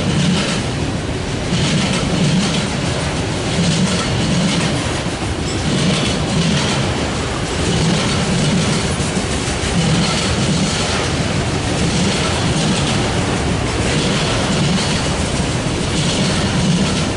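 A freight train of autorack cars rolling past: a steady rumble of steel wheels on rail, with an even, repeating clickety-clack as each car's wheel sets pass over the rail joints.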